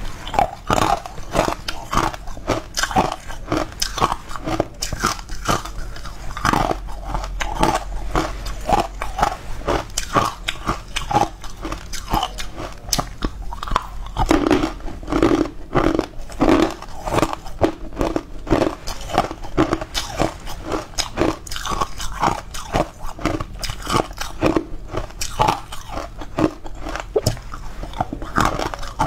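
Close-miked crunching and chewing as green powder-coated cubes are bitten and eaten, a continuous run of crisp crunches.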